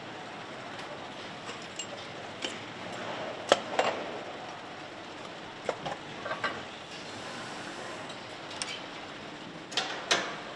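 Steady factory-floor noise with scattered sharp metallic clinks and knocks, the loudest about three and a half seconds in and a pair near the end.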